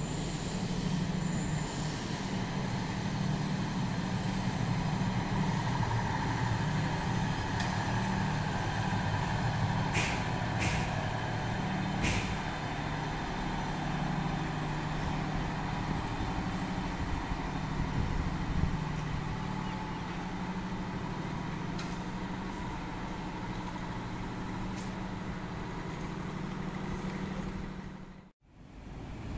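A train running with a steady low rumble and rail noise, with a few sharp clicks about ten to twelve seconds in.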